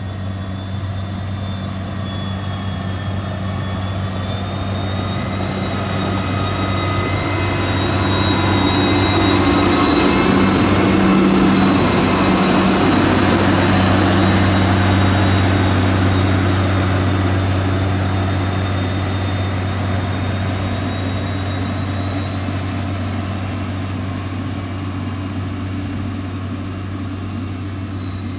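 Motor grader's diesel engine running steadily under load, with a high whine over its low hum. It grows louder to a peak about eleven seconds in, then slowly fades.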